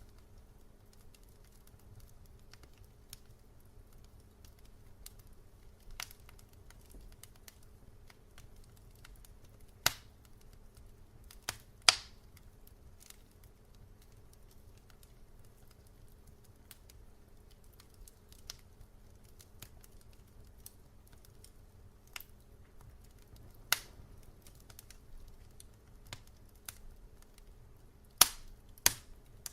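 Wood fire crackling in a fireplace: scattered sharp pops and snaps at irregular intervals over a quiet background. The loudest pops come near the middle and in a quick cluster near the end.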